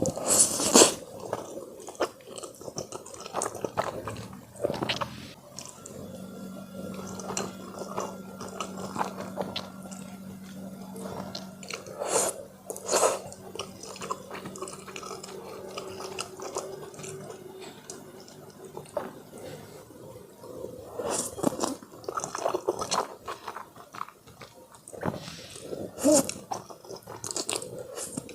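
Close-miked eating sounds: a person chewing, biting and crunching food, with wet mouth noises. The sounds come as irregular clicks and crackles, louder in clusters several times.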